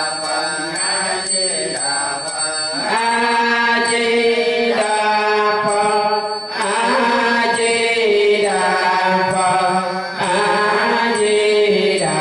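Melodic Buddhist chanting: a sung recitation on long held notes that step from one pitch to the next every few seconds.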